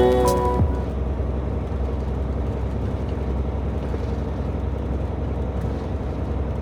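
Steady low rumble of a semi-truck heard from inside the cab while driving on the highway, engine and road noise droning evenly. A music track cuts off in the first half-second.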